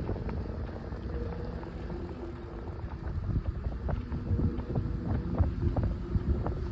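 Bicycle ride: wind buffeting the microphone over the rumble of the tyres on the path, with scattered small clanks and rattles, like the clanging from the front wheel.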